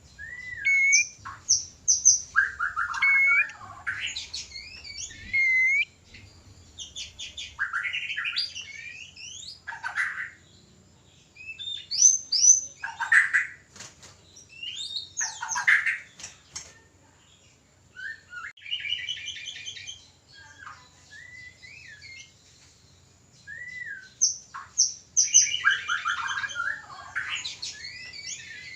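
White-rumped shama (murai batu) in breeding condition, giving courtship song and calls: clear whistles that rise and fall, rapid stuttering trills and harsh scolding notes, in bursts with short pauses between them.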